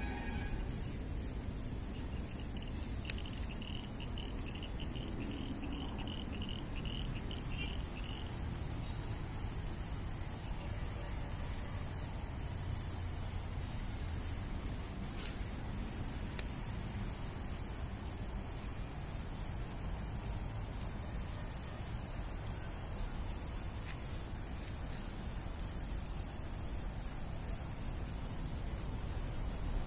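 Insects chirping in a steady pulsing rhythm, a few chirps a second, over a continuous high trill. From about 3 to 8 seconds in, a second insect chirps in faster, lower runs.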